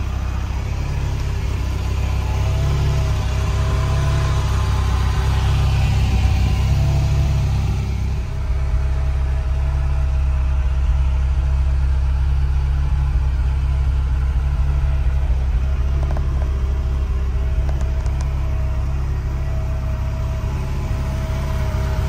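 Ferrari 308 GTB Quattrovalvole's V8 engine idling with a steady low rumble.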